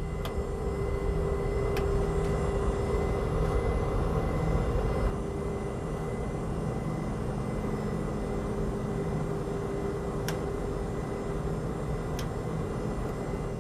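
Steady airliner flight-deck background noise in flight: an even rumble with a constant hum and a thin high tone, easing slightly about five seconds in. A few faint clicks sound through it.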